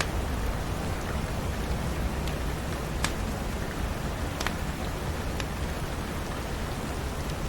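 Steady rain, with a few sharp clicks scattered through it, the clearest about three seconds in and again about a second and a half later.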